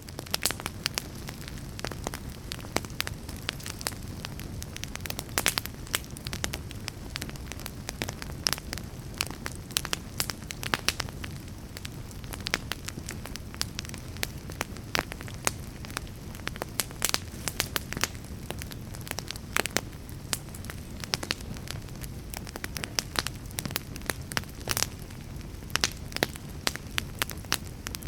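Fire crackling: a steady low rush with frequent, irregular sharp pops and snaps.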